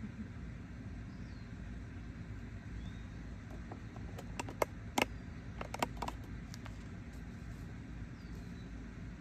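Outdoor ambience: a steady low rumble with faint, short bird chirps now and then. About halfway through comes a brief run of sharp clicks, the loudest sounds here.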